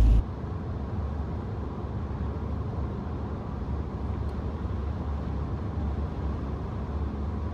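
Steady engine and tyre noise of a car driving along a paved road at cruising speed.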